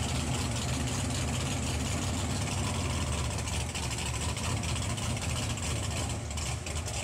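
Big off-road mega truck engine running steadily at low revs, a constant low rumble.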